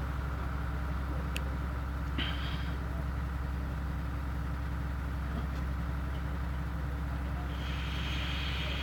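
Steady low hum with hiss, and a faint click about a second and a half in.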